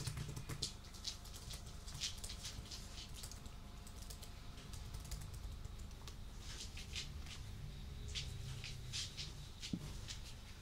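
Soft computer keyboard typing: keys clicking in irregular, scattered runs, busier in the second half.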